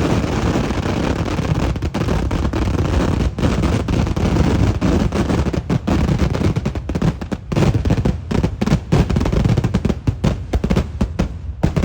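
Kerala temple-festival fireworks (vedikkettu): a dense rapid-fire barrage of firecracker blasts that merge into a continuous roar, breaking up about halfway into separate sharp bangs that thin out toward the end.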